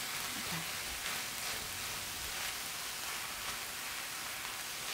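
Kimchi fried rice with pork and vegetables sizzling steadily in an oiled pan as it is stir-fried with a wooden spatula and chopsticks.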